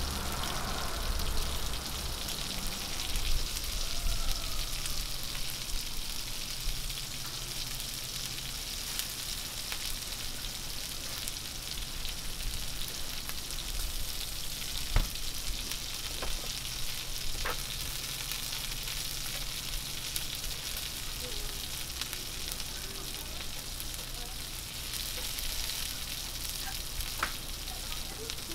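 Bean sprouts and noodles sizzling on a hot flat steel griddle: a steady frying hiss, with a few sharp clicks in the second half.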